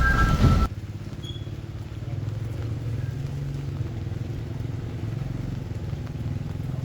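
A vehicle engine running steadily with a low hum. Under a second in, a louder, noisier sound cuts off abruptly just before it.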